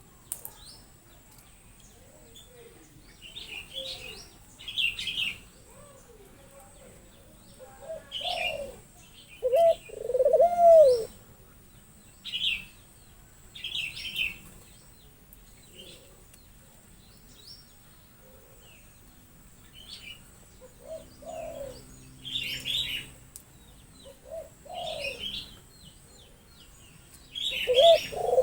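Birds calling: short high chirps again and again, and every so often low cooing notes that rise and fall, often two in quick succession.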